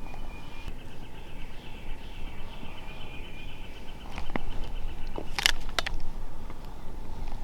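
Wind rumbling on the microphone with a bird's high, rapid trill held for several seconds, then a few sharp clicks a little past halfway.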